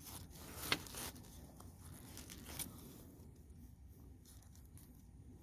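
Aluminium foil crinkling and tearing faintly as a foil-wrapped packet is peeled open, with a sharp click under a second in; the rustling thins out after about three seconds.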